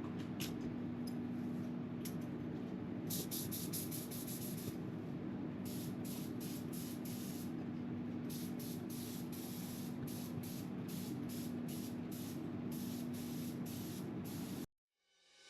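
Spray gun spraying epoxy primer onto a bare-metal fuel filler neck: repeated short bursts of hissing spray from about three seconds in, over a steady hum. The sound cuts off abruptly near the end.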